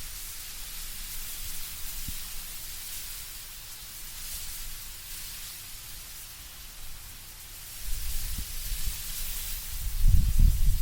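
Wind moving through autumn trees, rustling the leaves as a steady hiss that swells and eases. A low rumble from the gusts builds in the last few seconds and is loudest near the end.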